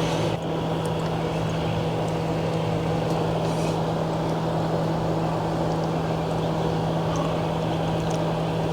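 A steady machine drone with one constant low hum that holds unchanged throughout, and a few faint light ticks over it.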